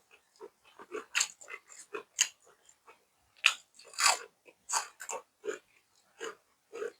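Close-miked chewing and crunching of food in the mouth, a run of short wet bites and crunches at an uneven pace of about two or three a second.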